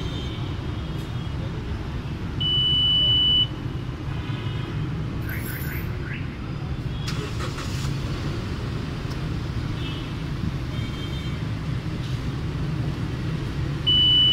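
Toyota Land Cruiser Prado idling with a steady low rumble while its smartphone-key system is worked from the app. Two high electronic beeps of about a second each, one about two and a half seconds in and one near the end.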